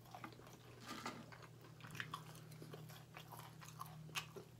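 Faint chewing of crispy fried chicken tenders, with small crunches and mouth clicks scattered through, over a low steady hum.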